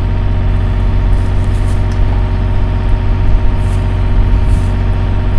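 Excavator engine running steadily at a low, even speed, a constant deep hum with a few held tones above it.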